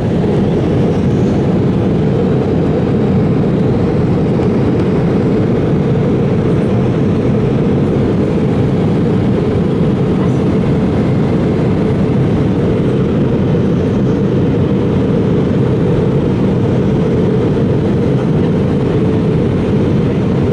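Steady cabin noise of an Airbus A320 in flight: an even rush of airflow and engine drone, deepest and strongest in the low range, with no change in level.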